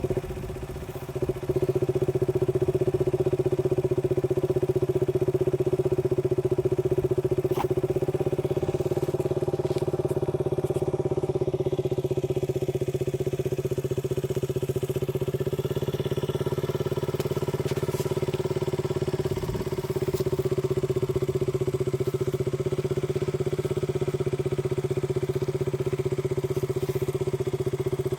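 KTM RC 200's single-cylinder four-stroke engine running through its exhaust at a steady, even pitch, briefly quieter about a second in.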